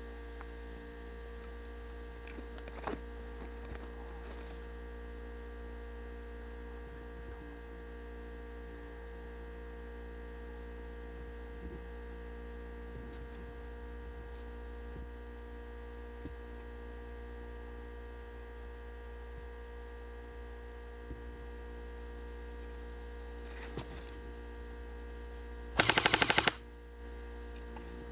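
Steady electrical hum. Near the end comes one short burst of rapid full-auto fire from an airsoft gun, lasting under a second.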